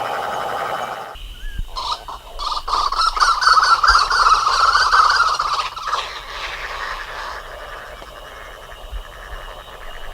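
Wild bird calling: a loud, fast, pulsed series of calls from about two to six seconds in, then quieter calls trailing off. A different steady sound stops abruptly about a second in.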